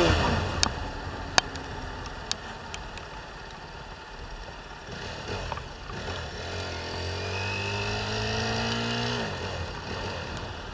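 Motorcycle engine under way: the revs drop off at the start, a few sharp clicks follow, then the engine note climbs steadily from about six and a half seconds in and falls away suddenly near nine seconds, as on a gear change.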